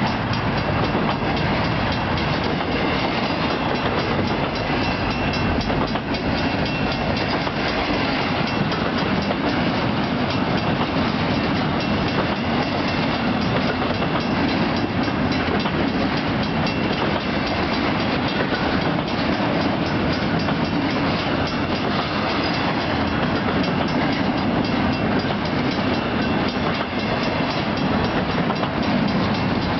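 Freight cars of a long train rolling steadily past at a grade crossing: a continuous rumble with the clickety-clack of wheels over the rail joints, and the crossing bell ringing.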